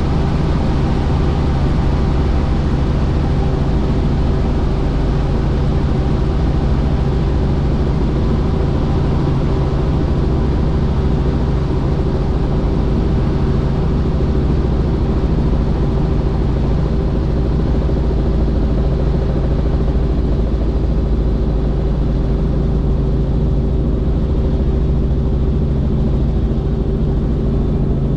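Helicopter in flight, a loud steady drone of engine and rotor with a constant low hum, unchanging throughout.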